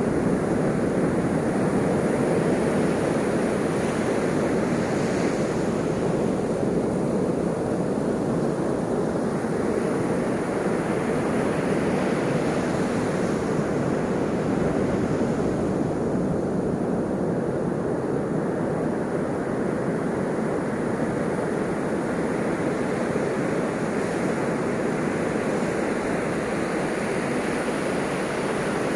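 Ocean waves breaking and washing in a steady surf, with slow swells where a wave crashes a few seconds in and again about halfway through.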